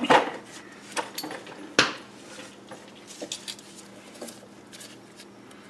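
Metal hand tools clinking and knocking as they are handled. Three sharp metallic knocks come in the first two seconds, then lighter scattered clinks.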